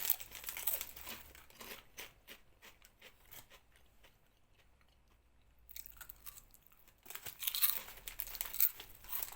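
Close crunching and crinkling noises in irregular crackly bursts, with a near-silent pause of about two seconds in the middle.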